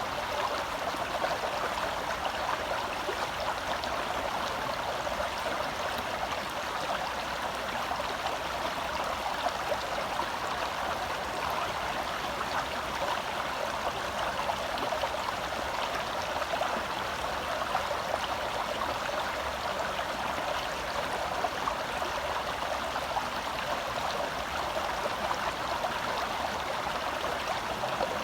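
Forest stream water flowing and burbling over rocks, a steady rushing with small splashes.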